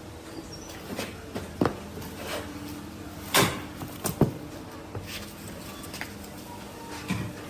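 Irregular knocks and clunks of wood and tools being handled, about six in all, the loudest a little past the middle, over a faint steady hum.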